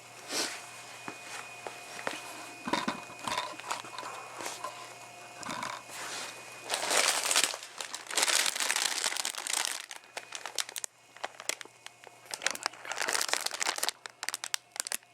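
A plastic coffee packet crinkling as it is handled and opened, in several bursts of rustling with small clicks. The loudest bursts come about seven and nine seconds in and again near thirteen seconds.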